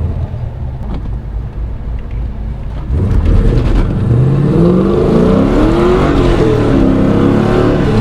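LS V8 in a BMW E36 running with a low rumble, then about three seconds in it gets louder suddenly and revs hard under acceleration, its pitch climbing and dipping.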